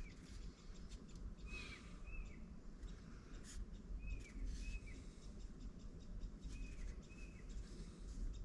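Faint bird chirps: pairs of short arched two-note calls repeating about every two and a half seconds. Light rustling and clicks are mixed in.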